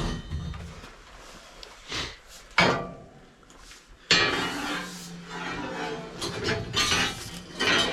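Knocking and clattering of hard objects: a few sharp knocks, then a dense run of clatter starting suddenly about four seconds in.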